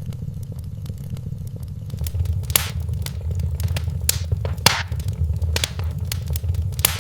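Wood fire burning in a fireplace, with a steady low rumble of flames that grows a little louder about two seconds in. Scattered small crackles run throughout, and several sharp pops of the burning logs come in the second half.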